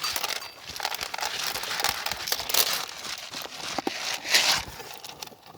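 Irregular rustling and crackling with scattered small clicks.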